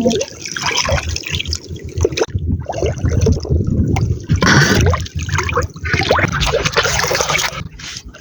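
Water sloshing and splashing in uneven surges.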